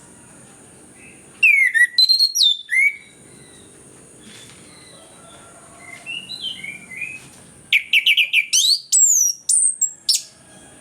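Orange-headed thrush singing in loud bursts of rapid notes and sweeping whistles, about a second and a half in and again from about eight seconds, with softer twittering between.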